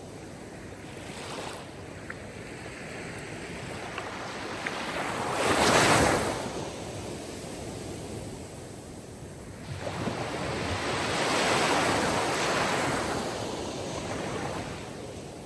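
Sea surf: waves rising and falling in slow swells, the loudest breaking about six seconds in, then a longer, broader swell from about ten seconds.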